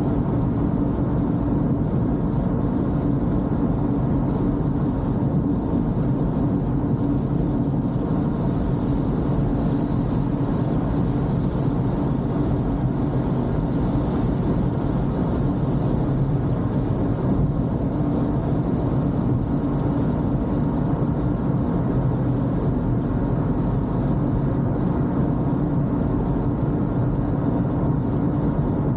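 Toyota Corolla being driven on a wet road: a steady, even drone of engine and tyre noise, mostly low in pitch, with no sharp sounds.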